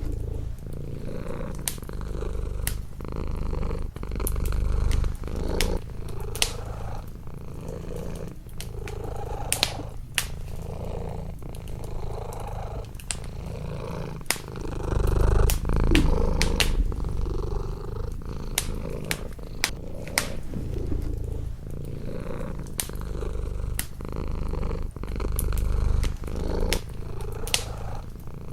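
Domestic cat purring close up, the low rumble swelling and easing with each breath. A wood fire crackles with frequent sharp pops over it.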